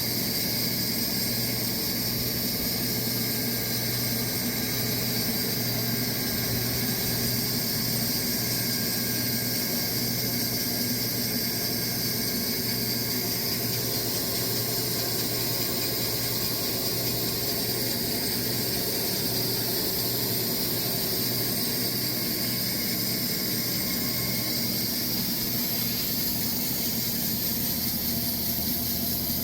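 Sawmill running steadily through a walnut log: a constant motor drone under an even high hiss, with no pauses or changes in pitch.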